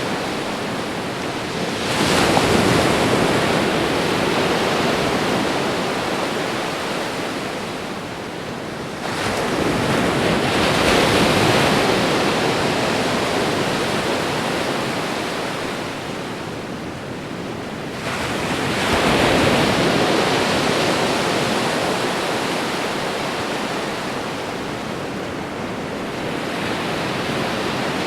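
Gentle ocean waves lapping against the shore: three surges about two, nine and eighteen seconds in, each building quickly and then fading slowly into a steady wash.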